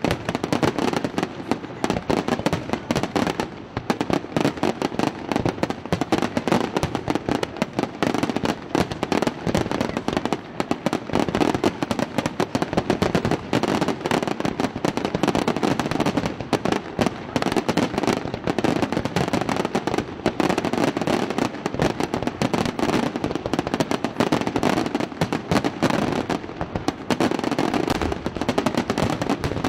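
Aerial firework shells bursting in a rapid, unbroken barrage of overlapping bangs.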